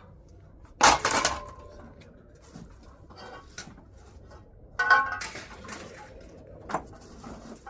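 Scrap metal being handled and dropped: a sharp clang about a second in and another near five seconds with a short metallic ring, and lighter knocks between them.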